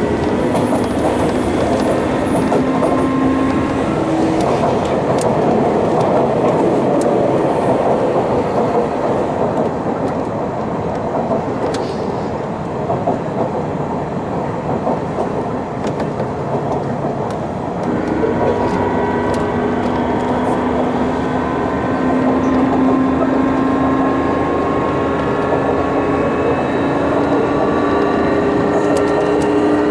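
Sotetsu New 7000 series electric train heard from inside a motor car: steady wheel and rail rolling noise with occasional clicks from rail joints. About halfway through, the Hitachi GTO-VVVF inverter and traction motor tone sets in as a group of pitched notes that rise gently as the train accelerates.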